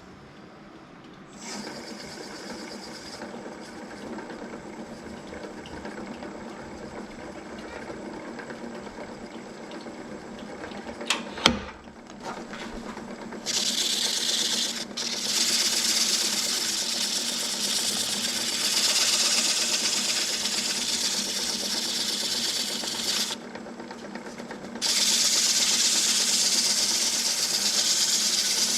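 Wood lathe motor running with a steady hum, a couple of sharp knocks about eleven seconds in. From about halfway, a tool or abrasive held against the spinning mesquite adds a loud hiss, which stops briefly and starts again near the end.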